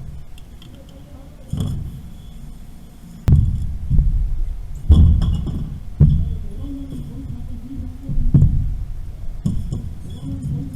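Several heavy knocks and clanks, about five spread over the stretch, the loudest two in the middle, from work on water piping during a valve replacement.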